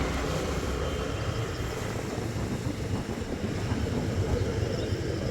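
Floodwater of the swollen Jhelum river rushing past, a steady low rumble.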